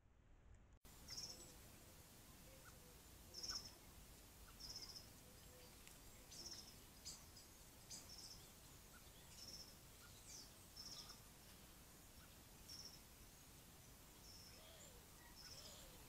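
Faint, short, high-pitched bird calls repeated every second or two over the steady hiss of a trail camera's microphone.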